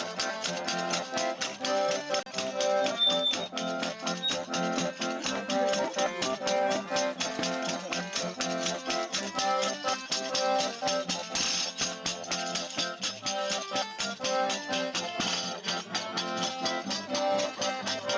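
Traditional Brazilian folk music played live: a pandeiro keeps a steady jingling beat under a button-accordion melody.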